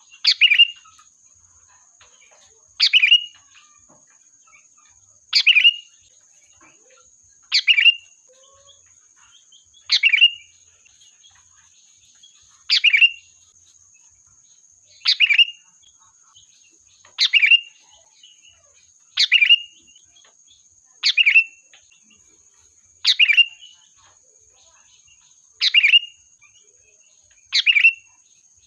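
Sooty-headed bulbul (kutilang) calling over and over, a short, loud call every two to two and a half seconds, about thirteen in all. A faint steady high-pitched tone runs underneath.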